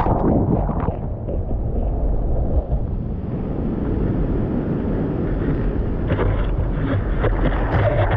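Wind buffeting the microphone with a heavy low rumble, over the steady rush of ocean surf.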